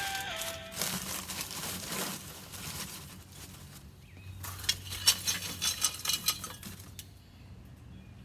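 Lumps of charcoal clinking and rattling in a ceramic kamado grill's firebox as the old coals are stirred and fresh charcoal is added. The loudest part is a quick run of sharp clinks about five seconds in.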